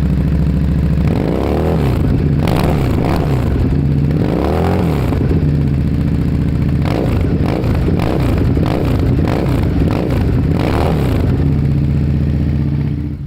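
Motorcycle engine and exhaust idling, then revved in a series of throttle blips that rise and fall in pitch, before settling back to a steady idle. The sound cuts off abruptly at the end.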